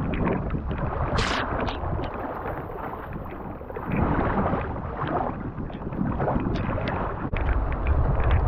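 Wind buffeting the microphone over choppy sea splashing around a kayak, with one sharp splash about a second in.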